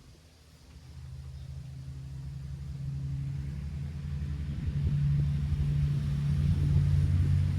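A motor vehicle's engine running with a low hum that grows louder from about a second in, its pitch shifting down near the end.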